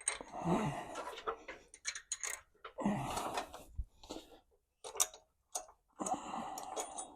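Loose steel nuts being picked through and handled, clinking and rattling in several short bursts of rummaging.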